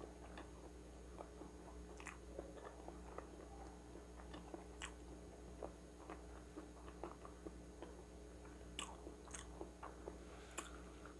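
A person chewing food, faint irregular mouth clicks and smacks, with a few sharper clicks here and there.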